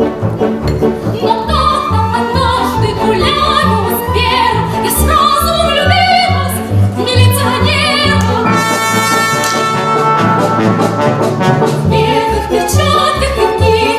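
Stage song: a woman singing with vibrato over orchestral accompaniment with brass, with a long held note about two-thirds of the way through.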